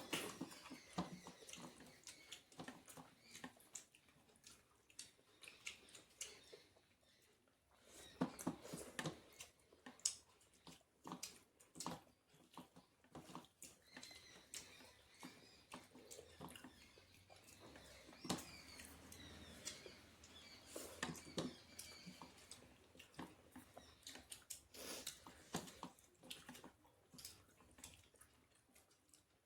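Quiet close-up eating sounds: irregular soft chewing, lip smacks and small clicks from a person eating a meal of rice and vegetable curries.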